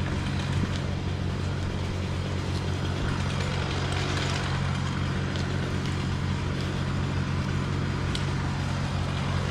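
An engine running steadily at idle, with no revving.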